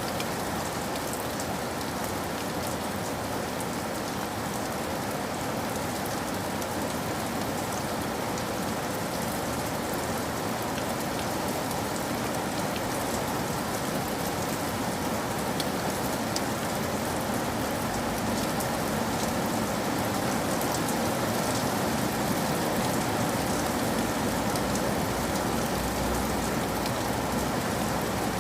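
Steady rain falling on hard surfaces, a dense even hiss with scattered small drop ticks.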